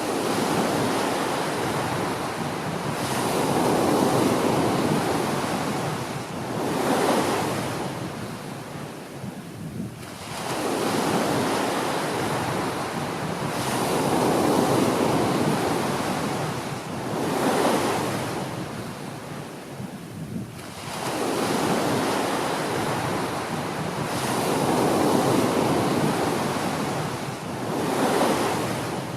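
Small ocean waves breaking and washing up a beach, about one every ten seconds. Each wash swells and fades, with a shorter second rush a few seconds after it; three waves come in.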